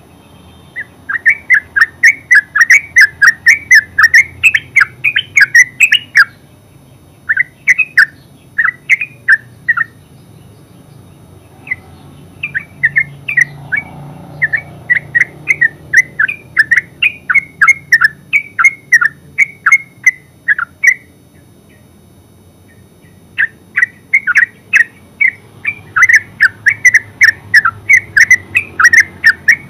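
Yellow-vented bulbul singing its rapid chattering 'ngeropel' song: quick runs of short notes, several a second, in long bursts separated by pauses of a second or two.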